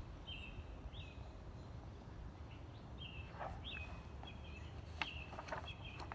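A small bird chirping, short high notes repeated about once a second, over a steady low outdoor rumble, with a few faint clicks.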